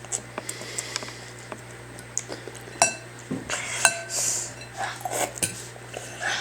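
Utensils and a bowl clinking at a meal: scattered light clicks and knocks, with two sharper ringing clinks about three and four seconds in.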